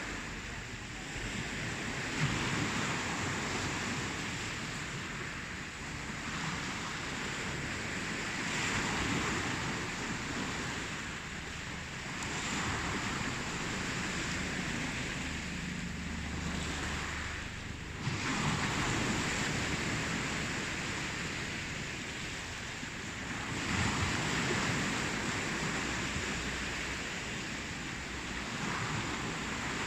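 Ocean surf: waves breaking and washing ashore, the rush of water swelling and fading every few seconds.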